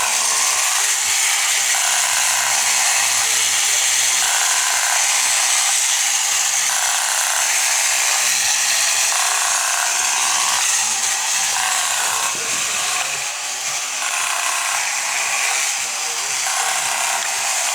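A 1960s Masudaya tin battery-operated pirate ship toy running. Its shaking sail mechanism gives a steady, loud rasping over the buzz of the small motor and gears.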